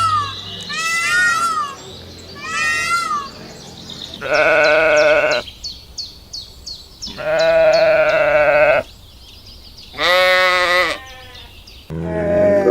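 Bleating livestock: three drawn-out, quavering bleats about a second long each, the last one higher, after a few short high chirping calls in the first three seconds.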